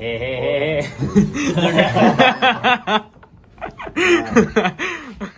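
People laughing, in quick chuckling bursts, with a brief pause about halfway through before the laughing and voices pick up again.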